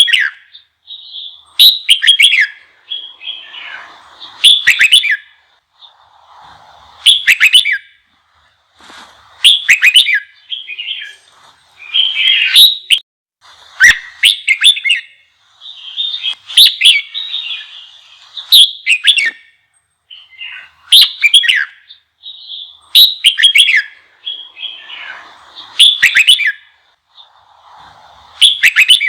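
Red-whiskered bulbul singing: loud phrases of quick, sliding whistled notes recurring about every two to three seconds, with softer chattering between them.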